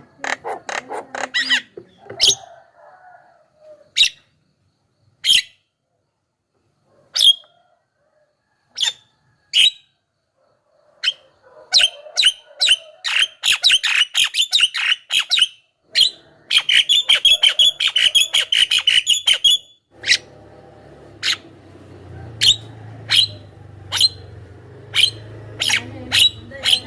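Javan myna calling with sharp, harsh single notes, breaking into fast chattering runs about halfway through, then going back to spaced notes.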